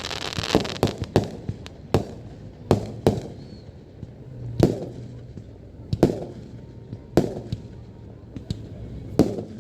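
Aerial fireworks bursting: a dozen or so sharp bangs at irregular intervals, each with a short echoing tail, with a dense crackle in the first second.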